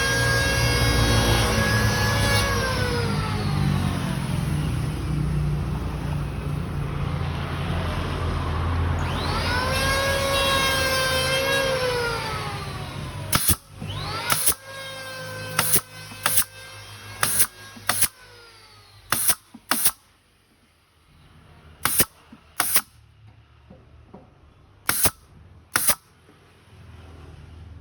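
An electric power saw's motor running, then winding down in a falling whine, spinning up again and winding down once more, as it cuts the trim. It is followed by about a dozen sharp shots, mostly in pairs, from a brad nailer fixing the trim.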